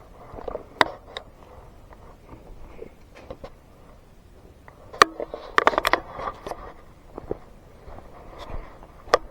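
Footsteps and rustling on a woodland trail, with scattered sharp clicks and a louder cluster of knocks and crackles about five to six and a half seconds in.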